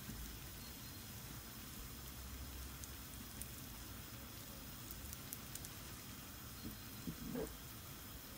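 Sfenj dough frying in hot oil in a pan: a faint steady sizzle with a few small crackles, and a brief soft sound about seven seconds in.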